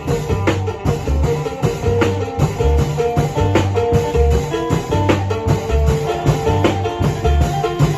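Lively Isan folk music: a phin (northeastern Thai lute) plays a running melody over a repeating bass line and steady drums.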